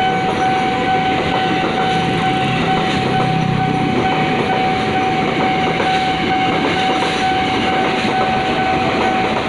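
A train passing over a level crossing, its wheels rumbling and clattering steadily on the rails, while the crossing's warning signal sounds a steady high tone throughout.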